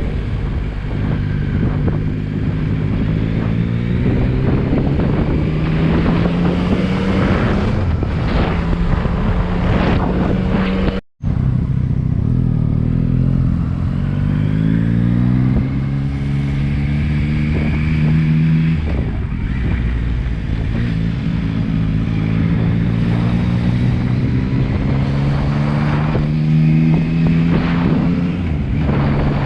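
Motorcycle engine running under load while riding, its revs climbing, dropping with each gear change and climbing again several times. The sound cuts out completely for a moment about a third of the way through.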